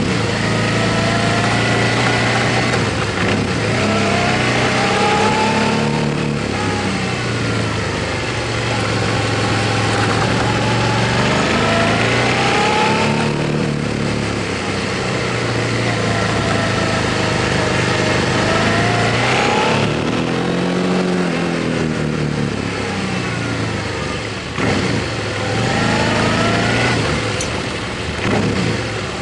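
Motorcycle engine pulling up through the gears, its pitch rising and breaking off at each shift several times, over a constant rush of wind noise.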